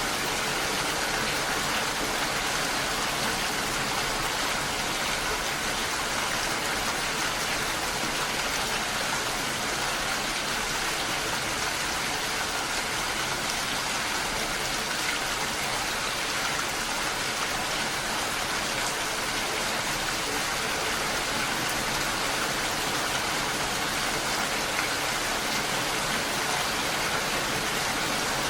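Steady rain falling, an even hiss with no breaks or changes in level.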